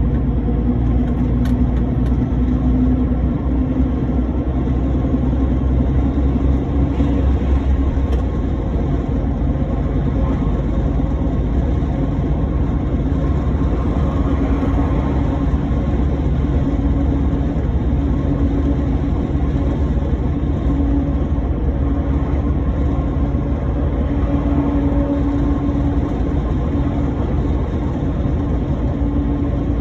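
Heavy truck driving: a steady engine drone over low road rumble.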